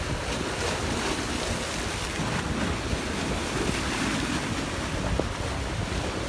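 Wind buffeting the microphone over a steady rush of waves.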